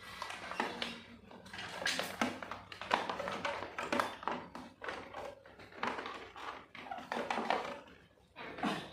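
Metal exhaust parts and hand tools knocking, clinking and scraping in irregular bursts as a racing exhaust is fitted to a motorcycle.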